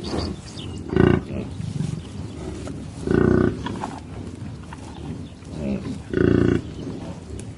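An animal calling three times: short, loud pitched calls about two and a half seconds apart, the first briefer than the other two.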